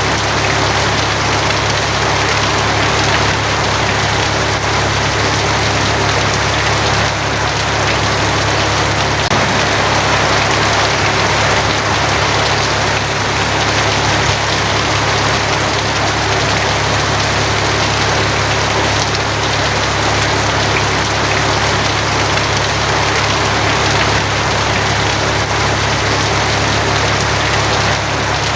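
Steady heavy rain drumming on a tin roof, an even, unbroken patter, with a steady low hum beneath it.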